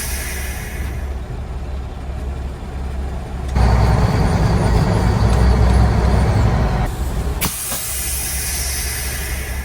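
Straight-piped Mack R Model truck's diesel engine running with a deep rumble, getting louder for about three seconds in the middle as it revs or pulls under load, then easing back. A sudden loud hiss starts near the end over the running engine.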